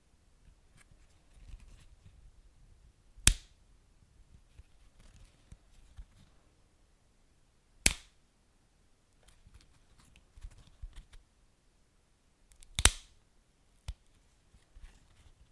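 Wood fire crackling: three loud sharp pops spaced a few seconds apart, with scattered small snaps and ticks between them.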